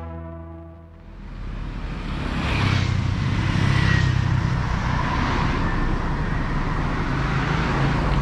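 Background music fading out in the first second, then a motorbike riding along: a small engine running steadily under wind and road noise, growing louder over the next couple of seconds.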